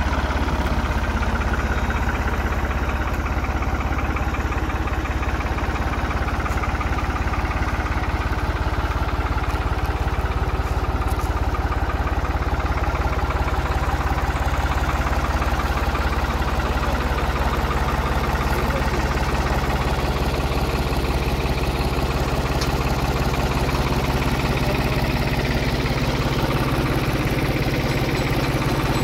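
New Holland TD65 tractor's diesel engine running steadily, its low tone strengthening a little in the second half.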